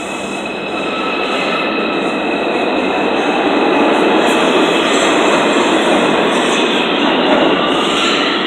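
New York City subway train moving through an underground station: a loud, steady rumble of wheels on rail that builds over the first few seconds, with thin high wheel-squeal tones in the first couple of seconds.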